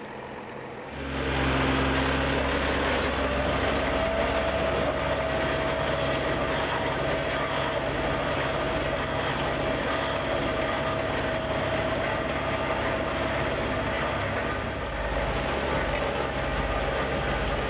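Heavy diesel machinery engine running steadily, coming in suddenly about a second in, with a steady whine joining from about four seconds in.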